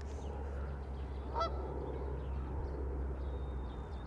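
Canada goose honking once, about a second and a half in, with fainter goose calls around it, over a steady low rumble.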